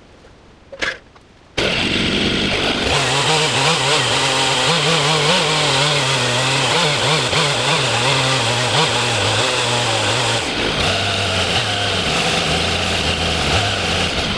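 Two-stroke chainsaw starts suddenly about a second and a half in and runs at high revs, its engine pitch wavering up and down as it works. About ten seconds in the pitch drops lower and holds steadier. A single sharp click sounds just before it.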